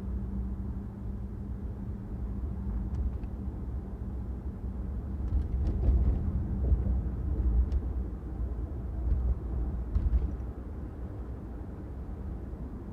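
Steady low rumble of a car driving on city streets, road and engine noise, with a faint steady hum. It swells with a few louder bumps in the middle, around six and ten seconds in, and there are scattered faint clicks.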